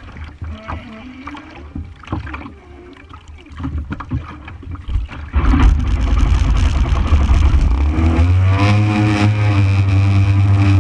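JetSurf motorized surfboard engine, a two-stroke, running loud from about five seconds in after a few quieter seconds; a little past the middle it revs up with a rising pitch, then holds a steady high speed.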